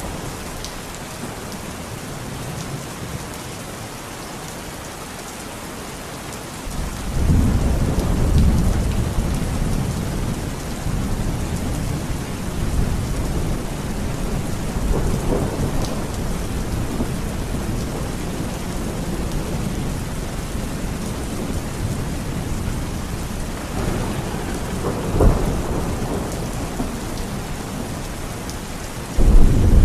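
Steady heavy rain in a thunderstorm. A loud low rumble of thunder swells in about a quarter of the way through and rolls on. A sharp crack comes near the end, followed by another loud rumble.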